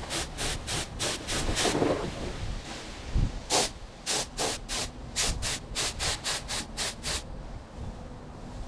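Paint spray gun hissing in short, quick bursts, about three a second, as the trigger is pulled repeatedly. The bursts stop a little after seven seconds in.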